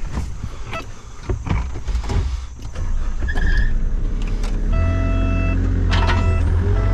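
A few knocks and clatter, then about three seconds in a heavy equipment engine comes up to a steady run, stepping up in speed about five seconds in with a steady hydraulic-type whine over it, as the machine gets going for backfilling.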